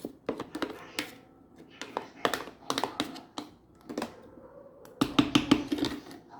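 Sharp taps and clicks of hard objects, coming in irregular groups, with a quick run of them about five seconds in.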